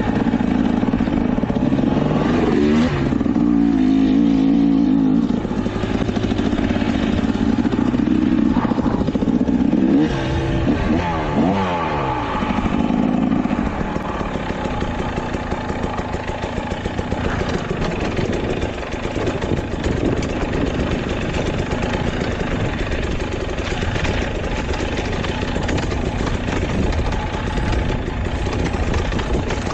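Dirt bike engine revving hard under load, its pitch sweeping sharply down and up around ten to thirteen seconds in. Over the second half it runs quieter and more evenly.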